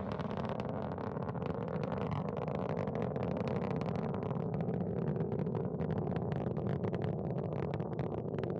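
Soyuz 2.1a rocket's first-stage engines in steady powered ascent, a continuous deep roar shot through with rapid crackling.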